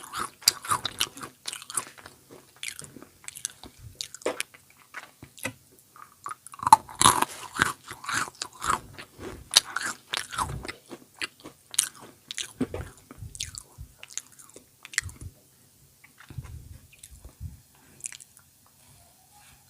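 Close-miked chewing and biting of snack food, with crisp crunches that come thick in bursts and then thin out toward the end.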